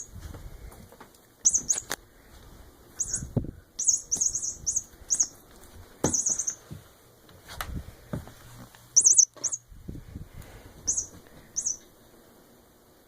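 A squeaky pet toy (a toy mouse or bird) giving short high squeaks, singly and in quick clusters of two or three, mixed with dull knocks and thumps as it is played with.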